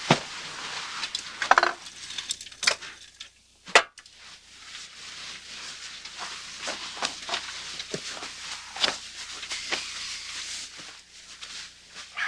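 Rustling with scattered small clicks and clinks, as of things being handled. The sharpest knock comes just before four seconds in and is followed by a brief gap before the rustling resumes.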